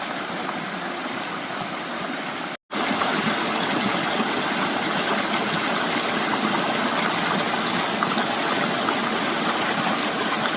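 Stream water rushing steadily. The sound cuts out for a split second about two and a half seconds in and comes back slightly louder.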